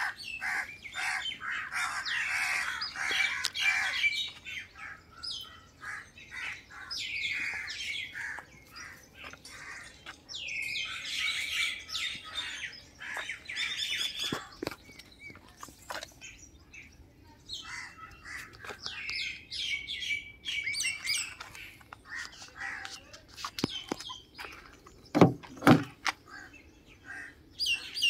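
Birds chirping and calling in short repeated phrases, with two loud knocks close together near the end.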